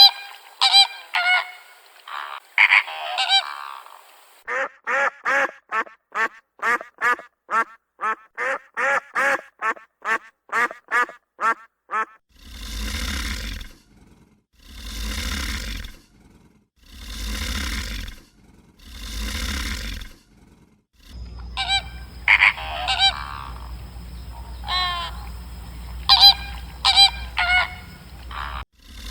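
A run of animal calls: geese honking at the start, a fast series of short pitched calls about two a second, then four long rough calls spaced about two seconds apart, and geese honking again near the end over a steady low hum.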